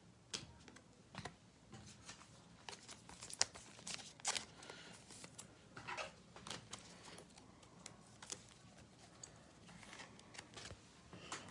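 Faint, scattered clicks and rustles of trading cards and foil pack wrappers being handled.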